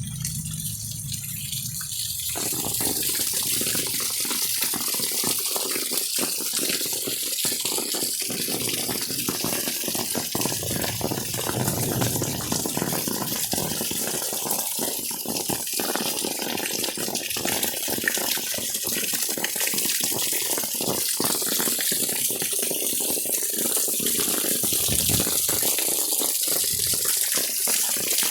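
Steady rush of rain and running water, filling out and growing louder about two seconds in, with a constant crackle of drops.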